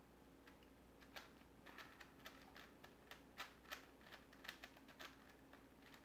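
Faint, irregular clicking of a plastic twisty puzzle being turned by hand, a dozen or so quick layer turns.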